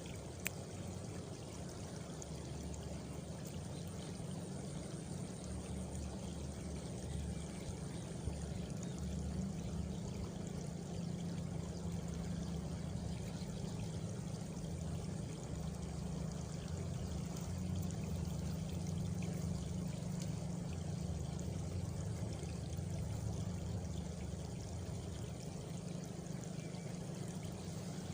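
Countryside ambience: a steady rushing, water-like noise over a low rumble, with a faint high cricket trill for a few seconds near the start.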